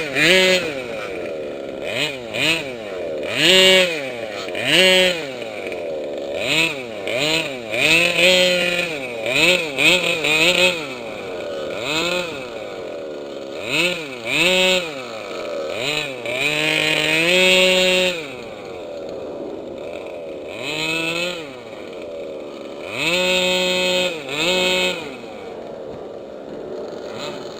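Small two-stroke engines of gas-powered 1/5-scale RC off-road trucks revving up and falling back over and over under throttle. About 16 seconds in, one is held at steady high revs for a couple of seconds.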